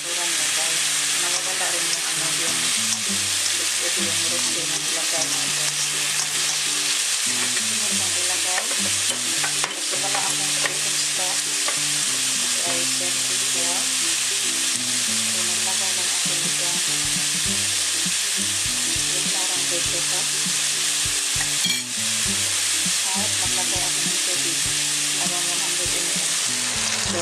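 Diced carrot, onion and mushrooms sizzling steadily in a nonstick wok while rosé wine boils off. Near the end, water is poured into the pan.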